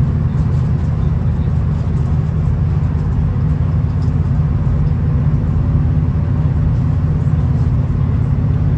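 V/Line VLocity diesel train running at a steady pace, heard on board as an even, low rumble with an engine drone underneath.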